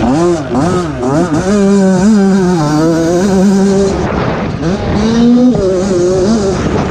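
Yamaha 85 dirt bike's two-stroke engine revving up and down while riding on a motocross track. The revs climb and drop several times, hold steady for a couple of seconds in the middle, then fall and climb again near the end.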